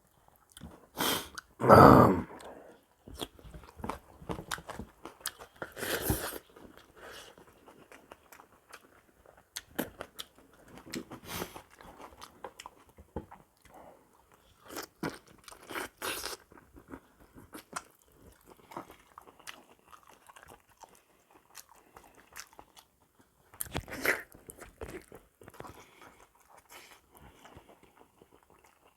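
Close-miked mouth sounds of a person eating a meal of buffalo trotters with rice and raw vegetables: chewing, biting and crunching with wet clicks and smacks. The loudest bite comes about two seconds in, with further louder bites about six and twenty-four seconds in.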